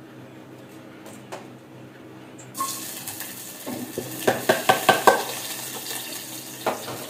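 Ingredients dropped into hot cooking oil in a small pot start to sizzle suddenly about two and a half seconds in, a steady hiss that carries on. Midway a quick run of knocks comes from a wooden spatula tapping and scraping against the pot and its container.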